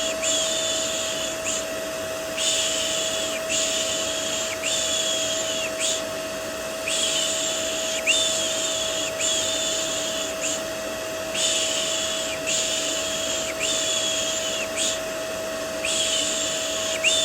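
Repeated "shh" shushing, about one hiss a second in groups of four or five with short breaks, over a steady vacuum cleaner drone with a constant motor whine.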